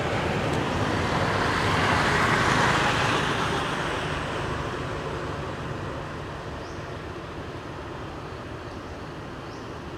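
Road vehicle passing, its noise swelling to a peak about two to three seconds in and then fading into steady traffic hum.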